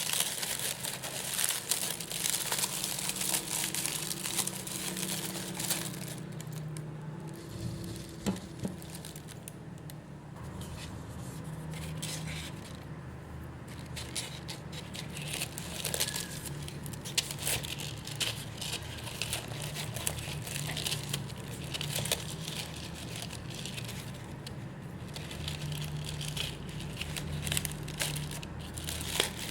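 Plastic packaging crinkling and rustling as it is handled, in irregular crackly spells, with a lull between about 6 and 12 seconds in.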